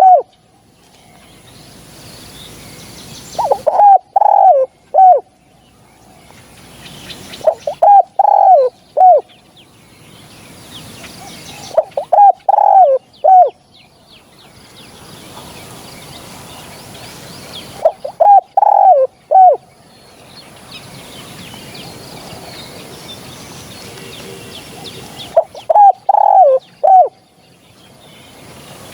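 Spotted dove cooing: short phrases of several low coo notes, repeated five times at intervals of a few seconds. Fainter chirps of other small birds sound between them.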